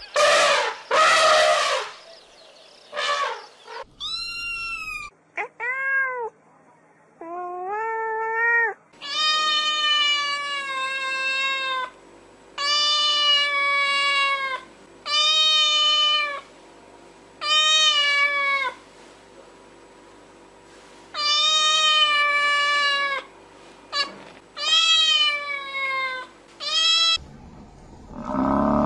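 Domestic cat meowing over and over: a few short calls, then a run of long, drawn-out meows. A few loud rough noises come before the meowing, and a low rough sound starts just at the end.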